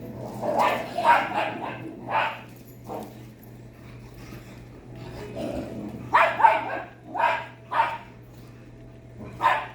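Dog barking in short sharp barks, in two bouts: several in quick succession during the first two seconds, then another run of barks from about six seconds in, over a steady low hum.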